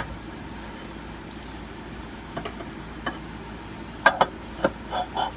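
Sharp metallic clinks and knocks from hardware and parts being handled while a new air spring is worked into the bus's front suspension. A couple of light ticks are followed by a quick run of louder clanks about four seconds in.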